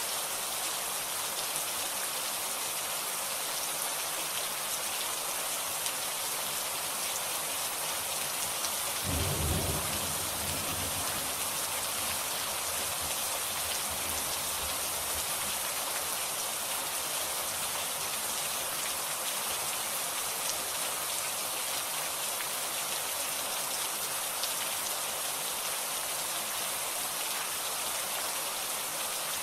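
Steady heavy rain falling, with one low thunder rumble about nine seconds in that lasts a couple of seconds.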